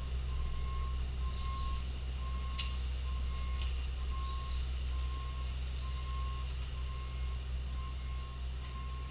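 Bobcat T870 compact track loader reversing: its backup alarm beeps steadily at a single pitch, about three beeps every two seconds, over the low drone of its diesel engine. A couple of sharp clanks come about two and a half and three and a half seconds in.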